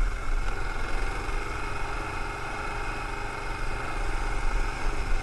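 Adventure motorcycle's engine running steadily while riding a rough dirt track, heard from a camera mounted on the bike, with a strong low rumble.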